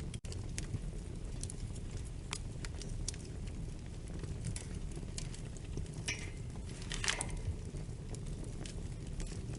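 Wood fire crackling, scattered sharp pops over a steady low rumble, with a brief louder hissing flare about six to seven seconds in. A split-second dropout comes right at the start.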